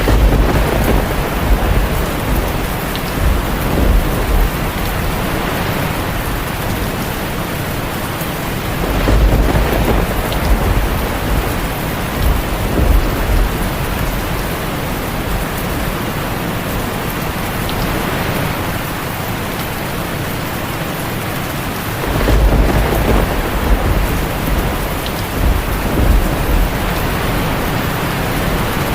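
Heavy rain falling steadily on a tin roof, with three rolls of deep thunder: one right at the start, one about nine seconds in and one about twenty-two seconds in.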